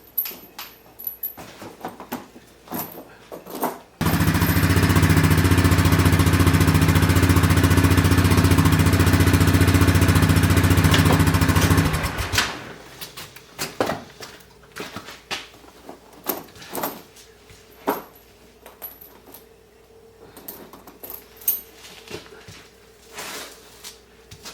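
A small engine running steadily at an even speed for about eight seconds, starting and cutting off suddenly, with scattered clicks and knocks before and after.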